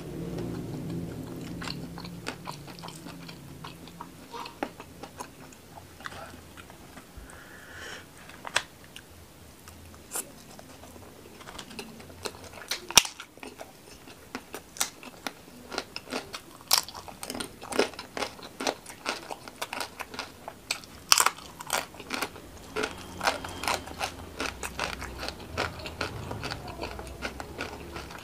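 Close-miked chewing, then crisp crunching of fried rempeyek crackers from about ten seconds in: a dense run of sharp, crackly bites and chews.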